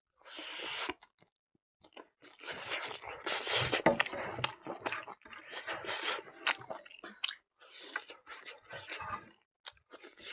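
Close-up chewing and crunching of food in the mouth, in irregular bursts with sharp crunchy clicks.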